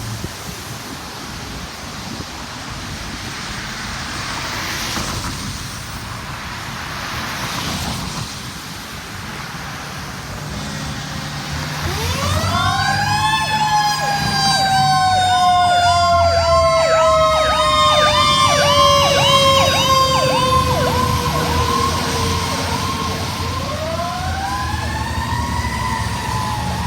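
Emergency vehicle sirens start about halfway through. One wail rises, then glides slowly down for about ten seconds and rises again near the end, while a fast yelp repeats alongside it over a heavy truck engine's rumble. Before the sirens there is only road and traffic noise.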